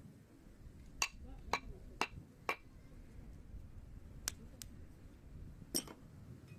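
Hardwood firewood burning and crackling, with sharp pops over a faint low rumble. Four pops come about half a second apart in the first half, then a few more are scattered.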